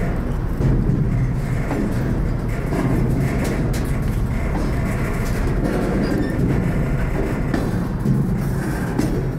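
Freight train rolling along the track, heard from aboard a car: a steady low rumble with scattered clanks and wheel clatter.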